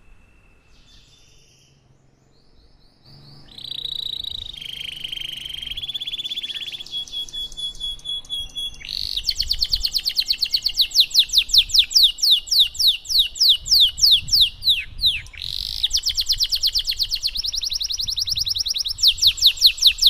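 Domestic canary singing. After a few quiet seconds it starts warbling phrases, then from about nine seconds in breaks into a loud, fast roll of repeated descending notes. The roll pauses briefly near fifteen seconds and then runs on.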